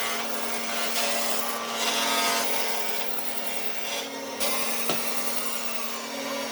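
A power tool running steadily and working wood, its abrasive noise swelling louder from about a second in and easing off again, with a couple of short sharp knocks.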